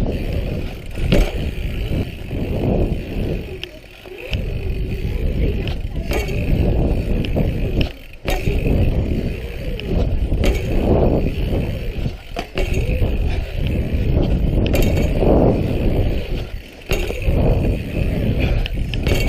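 Dirt jump bike ridden around a concrete skatepark, tyres rolling with wind rumbling on the chest-mounted camera's microphone, the noise swelling and dipping with speed. Several sharp knocks scattered through, as from landings or the bike hitting edges.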